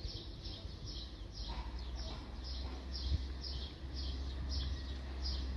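A bird repeating a short, high, falling chirp about twice a second, steady and even, over a low background rumble.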